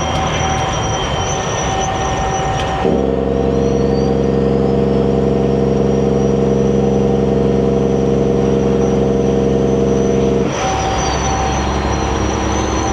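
Semi truck's diesel engine brake (jake brake) coming on about three seconds in: a steady, deep, pitched bark through 8-inch stacks, with a turbo whistle rising as it engages. It cuts off abruptly a couple of seconds before the end, the whistle falling away, leaving the engine and road noise.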